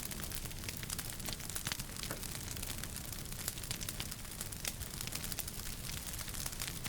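Wood fire crackling in a fireplace: many small sharp pops at irregular intervals over a steady low rumble.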